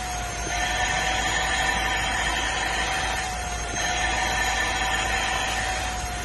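Vacuum cleaner motor running steadily with a high whine over a rushing of air, its pitch and level dipping briefly about half a second in and again around three and a half seconds.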